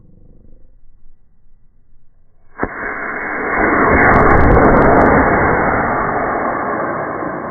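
Rocket launch: a sharp crack about two and a half seconds in, then a loud, noisy roar that builds for a couple of seconds and slowly fades.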